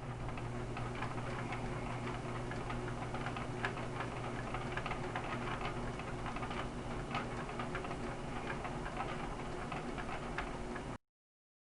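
Rain falling, with many irregular drops ticking sharply on a hard surface over a steady low hum. The sound cuts off suddenly near the end.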